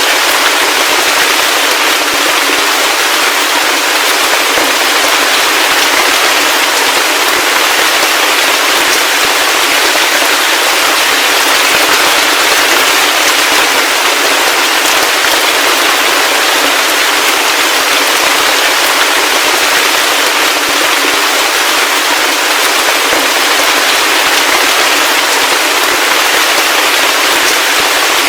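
Heavy rain falling steadily: a dense, even hiss with a fine crackle of individual drops, and no deep bass.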